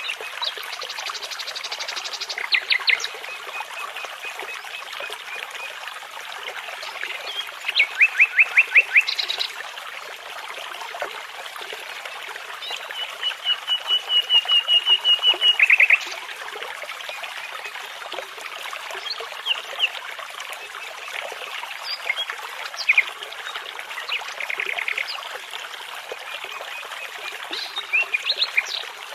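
Nightingale singing in separate phrases of fast repeated notes, one phrase near the middle swelling in loudness for about three seconds, over the steady sound of a babbling brook.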